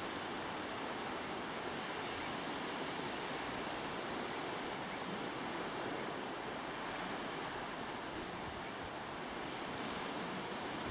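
Steady rushing of sea surf and wind, an even noise with no rises, falls or separate events.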